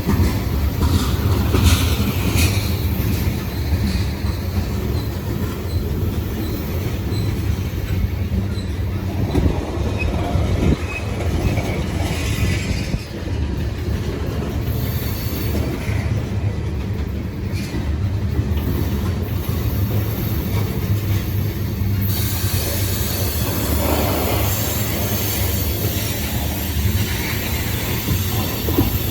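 Loaded ethanol tank cars of a freight train rolling past, a steady low rumble of steel wheels on rail with occasional faint high-pitched wheel squeals.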